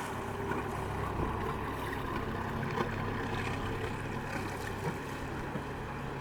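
Boat engine running steadily with a low hum, with wind and water noise over it.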